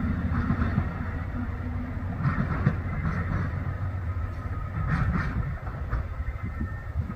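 Freight train rolling past with a steady low rumble of wheels on rail, and scattered clicks of wheels over rail joints.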